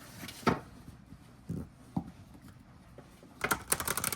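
A deck of matte tarot cards handled with a few soft taps, then, from about three and a half seconds in, a rapid run of flicking clicks as the cards are shuffled.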